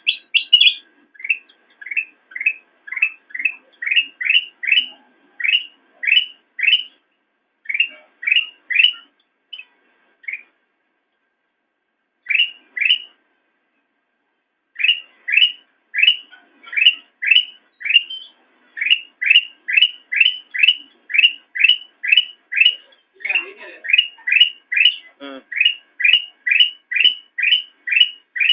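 Kutilang emas bulbul singing a long run of short, sharp upward-sweeping notes, about two a second, with a pause of a few seconds near the middle.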